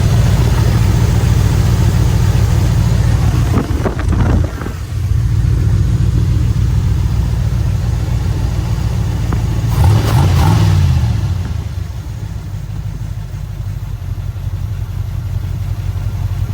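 1983 Chevrolet Caprice engine running steadily, being checked for an exhaust manifold leak that has just been repaired. About ten seconds in it is revved once, the pitch rising and falling back.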